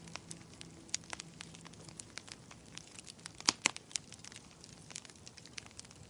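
Wood fire crackling in a fireplace: irregular sharp pops and snaps, the loudest pair about three and a half seconds in. Soft background music fades out during the first two seconds.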